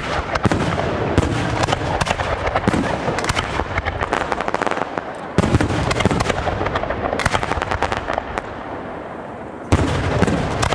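Fireworks display: a dense crackle of many small bursts, with heavy shell bursts about five and a half seconds in and again near the end.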